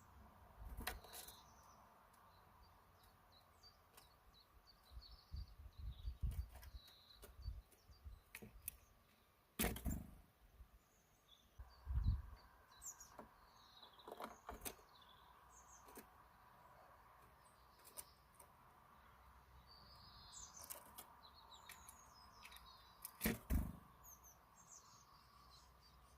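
Small birds giving short, scattered chirps and calls, with a few sharp knocks or thumps breaking in now and then. The loudest knocks come about ten, twelve and twenty-three seconds in.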